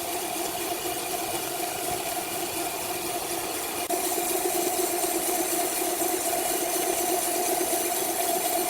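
Sawmill machinery running with a steady hum and hiss, becoming suddenly louder about four seconds in.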